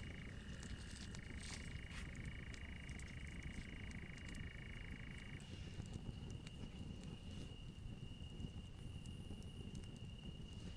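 Night chorus of calling animals: a steady high-pitched call throughout, with a second, lower call that stops about halfway through. Underneath are a faint low rumble and scattered faint clicks.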